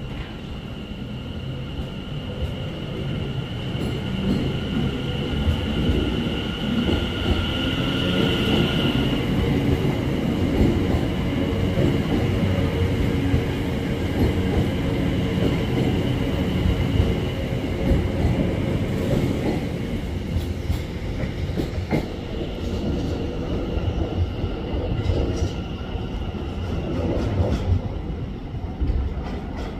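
A train moving on the rails with a low rumble that builds over the first few seconds and eases off near the end. A steady high whine runs over it and cuts off about nine seconds in.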